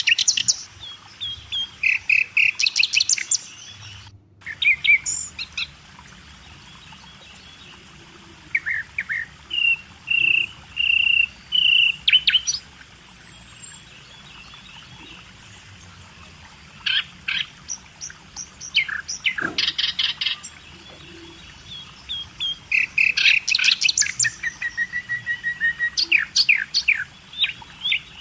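Several birds singing and calling: quick runs of chirps, a few short whistled notes, and thin, very high trills now and then.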